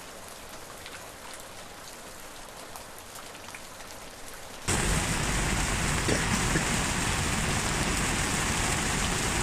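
Rain falling, with individual drops ticking sharply over a steady hiss. About halfway through it jumps suddenly to much louder, denser rain that keeps up evenly.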